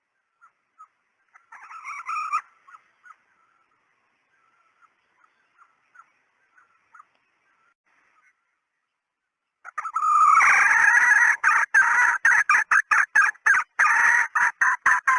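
Junglefowl hen calling as a decoy call: scattered soft clucks with a brief louder outburst about two seconds in, then from about ten seconds a loud, fast run of cackling notes.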